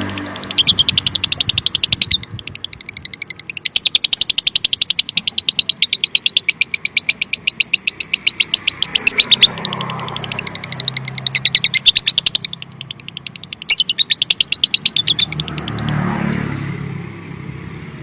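Lovebird singing a continuous chattering trill (the long 'konslet' ngekek), very fast repeated high clicky notes in long runs broken by brief pauses.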